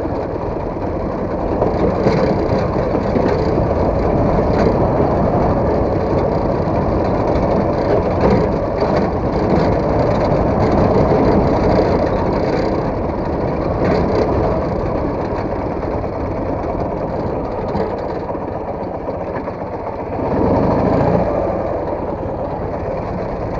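Soviet motorcycle engine running while riding a dirt trail, with a few short knocks along the way. The engine note swells briefly about twenty seconds in.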